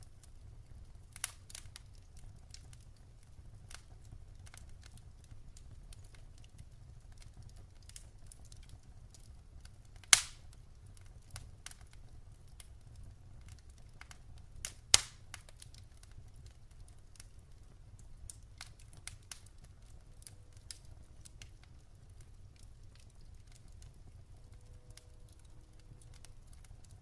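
Firewood burning in a fireplace: scattered crackles and sharp pops over a low steady rumble. The two loudest pops come about ten and fifteen seconds in.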